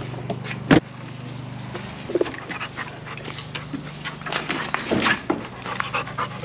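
A dog making two short high whines and moving about, over a steady low hum from a running machine. A sharp knock comes just under a second in.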